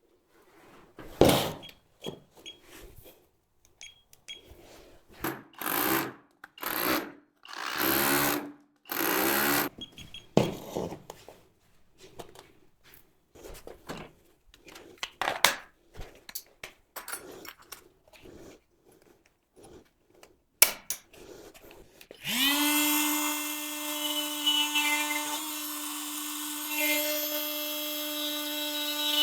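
Irregular short bursts of work noise and sharp knocks from hand tools, then about three-quarters of the way in an electric power tool spins up and runs at a steady speed with a constant hum.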